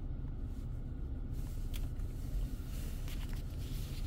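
Car engine idling, a steady low rumble heard from inside the cabin, with a few faint clicks from handling.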